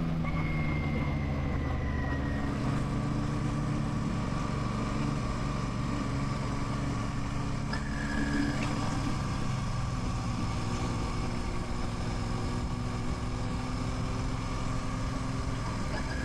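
Royal Enfield Classic 650's 648 cc parallel-twin engine running under way, its note easing down at the start and then holding fairly steady.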